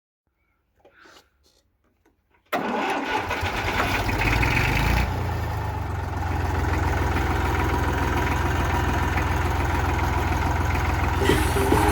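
Three-cylinder liquid-cooled engine of a 1964 Fordson Dexta tractor. After near silence it comes in suddenly about two and a half seconds in and runs steadily.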